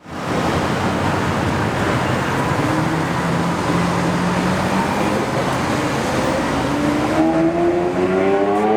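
A sports car's engine running loudly with a rumbling tone, then rising steadily in pitch from about six seconds in as the car accelerates.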